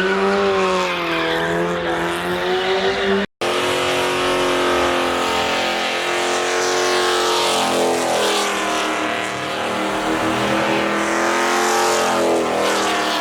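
A car's engine held at high revs, its pitch wavering up and down, with tires squealing as it drifts. It breaks off for an instant about three seconds in.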